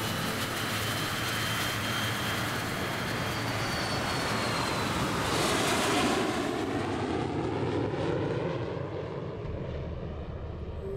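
Twin-engine jet airliner taking off, its engines at full thrust with a thin high whine that rises slowly. The sound is loudest about six seconds in as the plane climbs past, then fades, dropping in pitch as it moves away.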